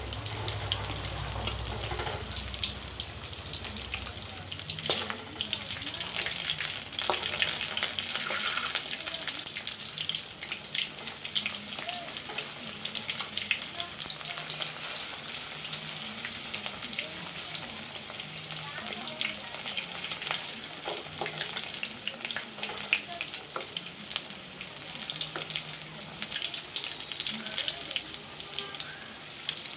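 A batter-dipped, chicken-stuffed capsicum cutlet sizzling and crackling in hot oil in a pan, with constant spitting pops, busiest in the first several seconds.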